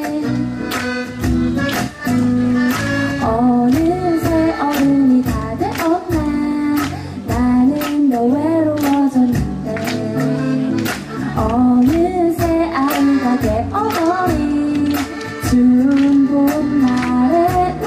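Live band music with a steady beat: drums, bass and guitar under a sung melody.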